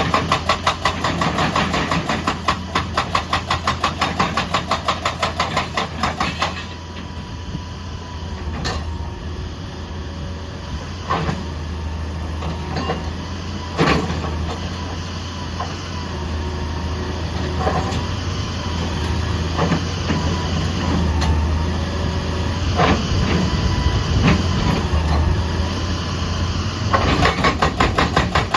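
Excavator-mounted hydraulic rock breaker hammering at about five blows a second for the first six seconds and again near the end. In between, the excavator's diesel engine runs steadily, with scattered knocks and a thin whine.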